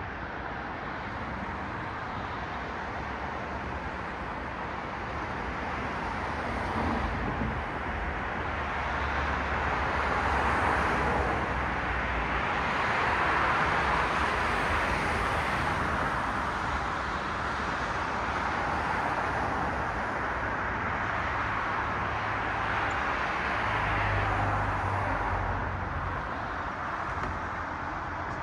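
Road traffic: cars passing on a street, a steady tyre-and-engine hiss that swells as vehicles go by, loudest about halfway through and again near the end, with a low engine rumble underneath.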